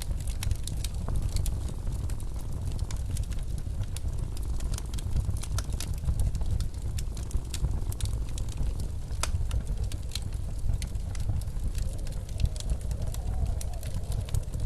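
Wood fire crackling with frequent irregular sharp pops over a steady low rumble of blizzard wind. The wind briefly sounds a faint wavering whistle near the end.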